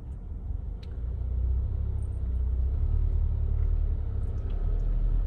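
Car driving slowly along a road, a steady low rumble of engine and tyres that grows louder about a second in, with a couple of faint clicks.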